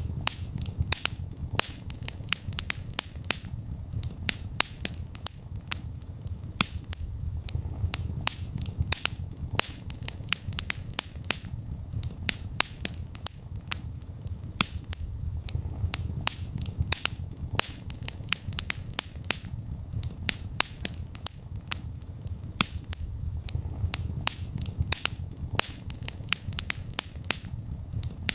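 Wood fire crackling steadily in a fireplace: frequent sharp, irregular pops and snaps over a low rumble of burning.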